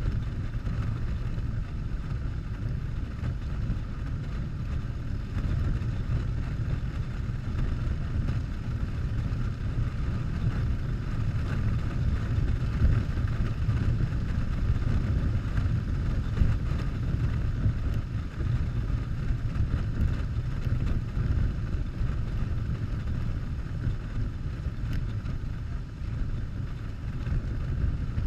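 Harley-Davidson Softail's V-twin engine running steadily while riding, a constant low rumble mixed with wind noise on the microphone.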